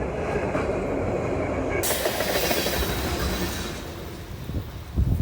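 A train passing on the railroad track. It is a steady rumbling noise that is loudest through the first three seconds, with a sudden hiss added about two seconds in, then dies away near the end.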